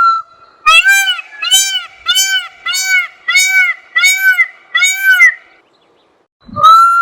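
A bird calling: one long note ends just after the start, then six evenly spaced arched calls come about half a second apart. After a short pause the long note starts again near the end.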